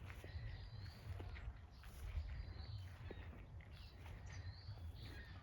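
A swallow giving faint, short, high chirps, about one a second, over a low rumble.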